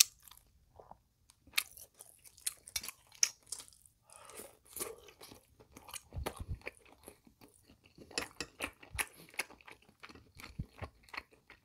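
Close-miked chewing of a mouthful of thick fatty pork and kimchi from pork kimchi stew: irregular soft mouth clicks and smacks.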